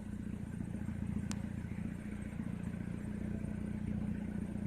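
A vehicle engine running steadily with a low, even hum, and a single faint click about a second in.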